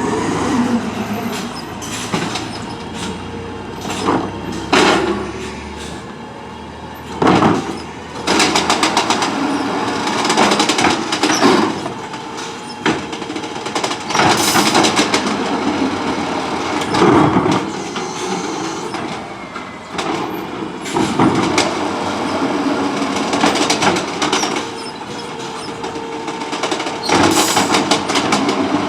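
Autocar ACX automated side-loader garbage truck at work, its CNG engine running and its Amrep hydraulic arm whining, with repeated loud metallic clanks and bangs as carts are gripped, lifted and shaken out into the hopper.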